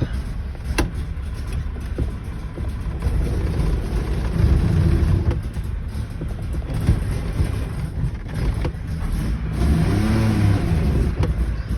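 1961 DKW 750 Junior's three-cylinder two-stroke engine running just after a cold start, picking up revs twice, about four and ten seconds in. A single sharp click comes about a second in.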